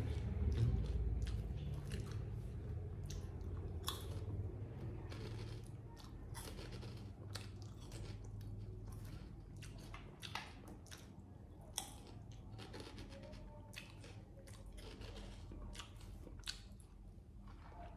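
A monkey chewing and crunching potato chips: irregular crisp crunches, a few louder than the rest. A low rumble at the start fades away over the first seconds.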